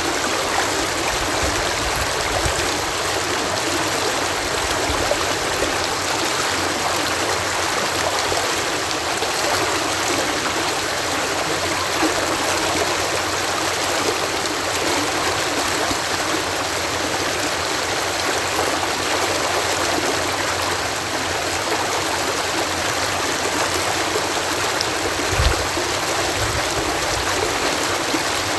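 Water pouring over a canal lock in a steady, even rush, with one brief low thump about 25 seconds in.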